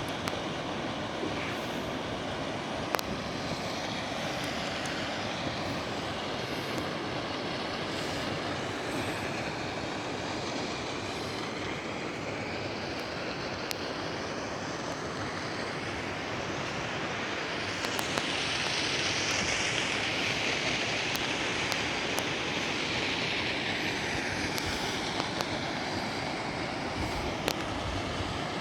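Hot spring waterfall pouring in a steady rush of falling water, growing somewhat louder and brighter for several seconds past the middle.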